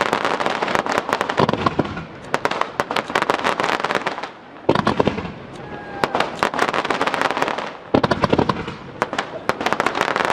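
Fireworks display: shells bursting in rapid, dense volleys of pops and crackle, with brief lulls about four and a half and eight seconds in.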